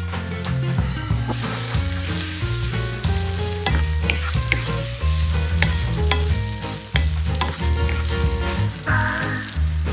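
Instant noodles and vegetables sizzling in a hot nonstick frying pan as they are stir-fried with a spatula; the sizzle gets louder about a second in. Background music with a steady bass line plays underneath.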